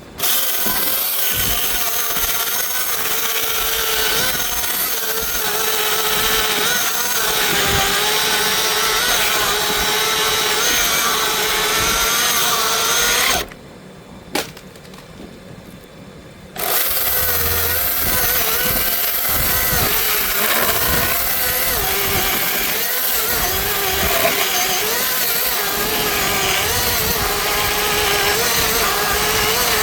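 Chainsaw running at high speed while cutting through a tree limb, its pitch wavering as it works under load. It drops away about 13 seconds in, and about three seconds later it is back at full speed and cutting again.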